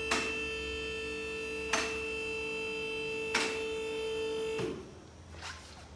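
A small electric motor running at a steady pitch, with a sharp click about every one and a half seconds; it stops about three-quarters of the way through.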